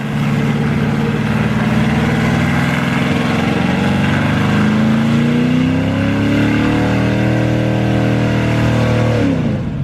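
Vehicle engine revving hard during a one-wheel peel burnout. The revs climb over several seconds, hold high, then drop off sharply near the end.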